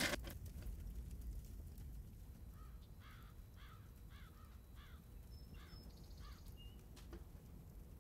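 A sharp knock at the very start, then a bird calling about seven times in quick succession, roughly two short rising-and-falling calls a second, over faint outdoor background noise.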